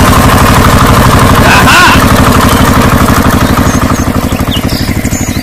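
Tractor engine running with a fast, even putt-putt beat, fading toward the end.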